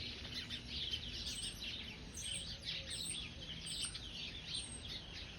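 A flock of house sparrows and starlings chattering and chirping together, with many overlapping calls.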